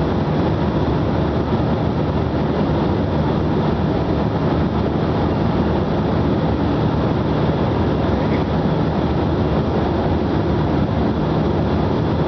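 Steady cabin noise inside a jet airliner climbing after take-off: the constant rush of airflow and engine drone, with a faint low hum running through it.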